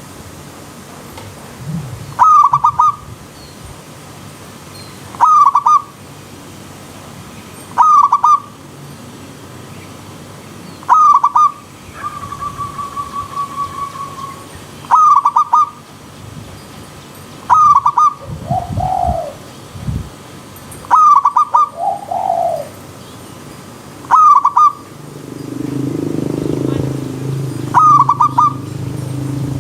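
Zebra doves (perkutut) calling: a short cooing phrase repeated about every three seconds, with a quick trill of notes near the middle and deeper drawn-out coos near the end. Under the calls runs a steady hiss of flowing stream water.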